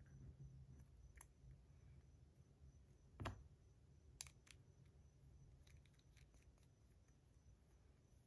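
Near silence with a few short, faint clicks, the loudest about three seconds in, from a hand-held metal fidget spinner being handled.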